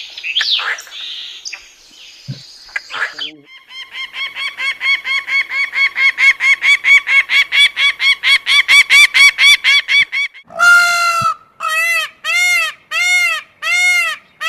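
Recorded animal calls, most likely a bird's. A few faint chirps, then a fast, even train of short nasal notes that grows louder for several seconds. About ten seconds in it gives way to slower, longer honking calls, each rising and falling, roughly one and a half a second.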